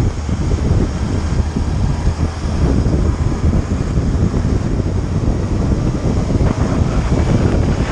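Wind buffeting the microphone of a moving motorcycle, a steady rushing noise with the bike's engine and road noise underneath.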